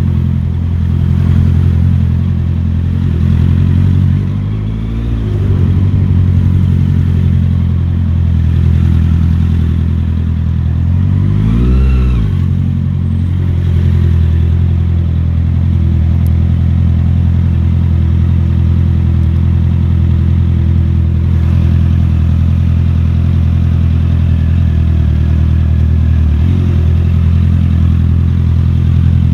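Motorcycle engine running under way with a steady low drone; the revs drop and climb back up about five seconds in, again more sharply about twelve seconds in, and briefly once more near the end.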